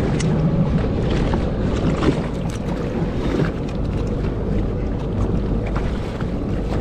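Steady wind rumbling on the microphone over water moving around a small boat's hull, with scattered small knocks and splashes.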